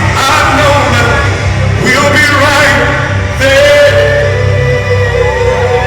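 Live R&B concert: male voices singing over a loud band, with a heavy steady bass beneath held and gliding sung notes.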